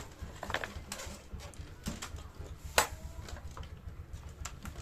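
Scattered light clicks and knocks of tools and parts being handled while working on a scooter engine, with one sharper knock a little under three seconds in.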